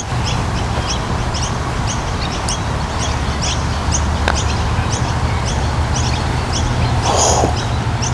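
A bird chirping over and over, short high chirps about two or three a second, over a steady low rumble. About four seconds in there is a single light click, the putter striking the golf ball.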